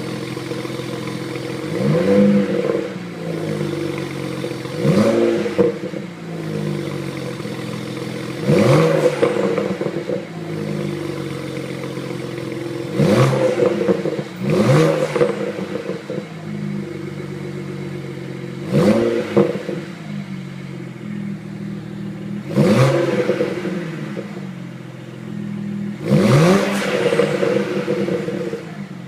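BMW E90 335i's turbocharged inline-six with catless downpipes and the stock exhaust, idling and blipped in about eight short revs, each rising and falling quickly back to idle.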